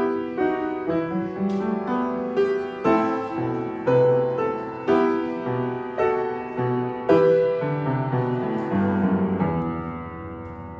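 Piano playing slow, chordal hymn-like music, each chord struck and fading, coming to rest on a held chord that dies away near the end.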